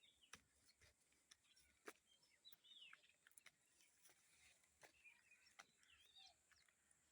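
Faint bird calls: short chirps sliding down in pitch, clustered around two to three seconds in and again near the end, over sharp scattered clicks and a steady high-pitched tone.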